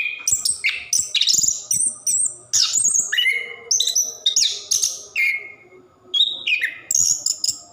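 Chestnut-capped thrush (anis kembang) singing a long, continuous song of quick, varied phrases: whistled glides and rapid notes, with only a brief lull near the end.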